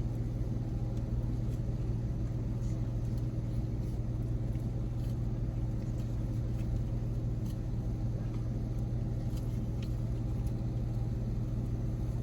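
Steady low engine rumble of a car idling, heard from inside the cabin, with a few faint small clicks over it.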